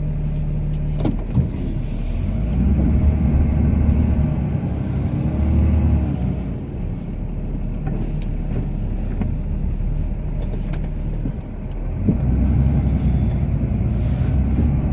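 Cummins inline-six turbo-diesel of a Ram pickup heard from inside the cab, working under load while plowing snow; its pitch and level rise and fall, swelling twice as it pushes. A couple of sharp knocks about a second in.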